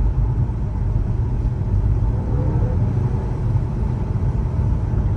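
Car cabin drone while driving: a steady low engine and road rumble, with a faint moan, like a cow mooing, that wavers up and down about halfway through. The moan comes from under the car, where remains of a run-over deer are caught around the exhaust, and sounds like something is dragging or broken.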